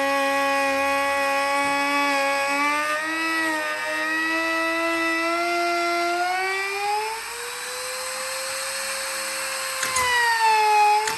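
An electric power tool's motor whining steadily, its pitch wavering, then climbing to a higher steady speed about seven seconds in. Near the end there is a short knock and the pitch dips and rises again.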